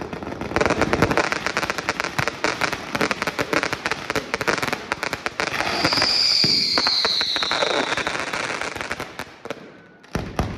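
Festival fireworks: a dense, rapid barrage of bangs and crackles, with a falling whistle in the middle. It fades off near the end, then a fresh volley of bangs breaks out.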